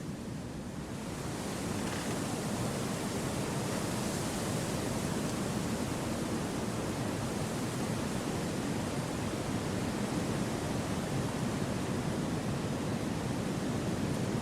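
Wind blowing through forest trees, a steady rushing hiss that swells about a second in and then holds.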